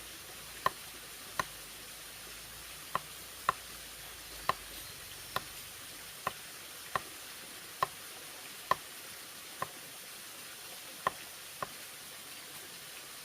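Short, sharp taps, about thirteen at uneven spacing of roughly one a second, over a steady background hiss.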